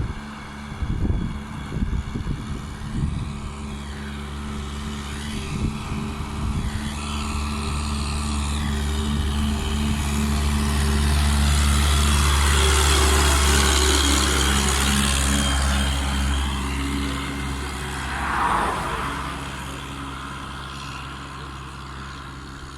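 SOMECA 640 tractor's diesel engine running steadily while hauling a trailer load of wood. It grows louder toward the middle and then fades, with a few knocks and rattles in the first seconds.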